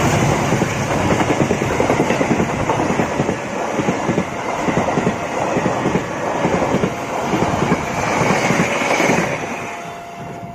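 Train running on rails, the wheels clattering steadily; the clatter fades in the last second or so.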